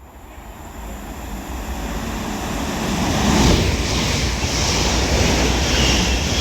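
Two coupled Northern Class 323 electric multiple units passing through the station at speed: a rushing noise of wheels on rail that builds over the first three seconds and then stays loud.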